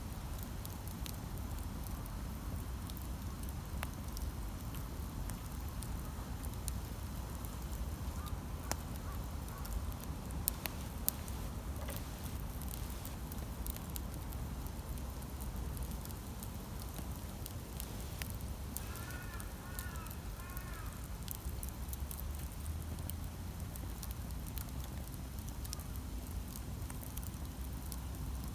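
Campfire burning with sparse crackles and sharp pops over a steady low rumble. About two-thirds of the way through, a bird gives a quick series of short chirps.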